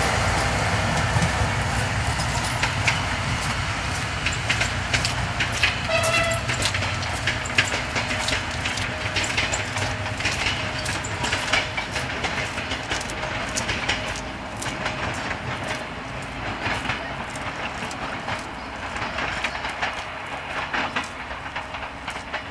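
Passenger train running away into the distance, its wheels clicking irregularly over the rail joints, the sound slowly fading as it recedes. A short high tone sounds briefly about six seconds in.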